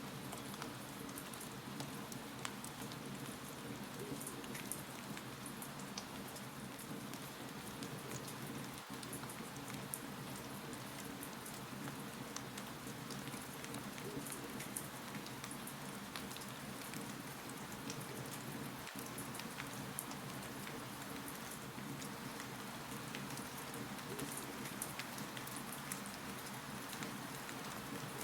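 Wood fire crackling in a fireplace: a steady soft hiss with small irregular pops and snaps scattered throughout.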